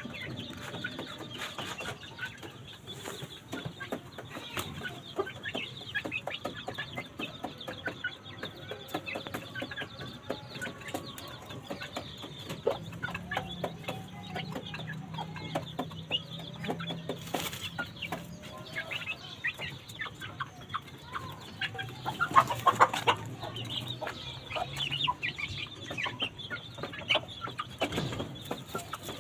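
Aseel chickens clucking, with many short, sharp calls throughout and a louder burst of calls about two-thirds of the way through. A faint low hum runs under parts of it.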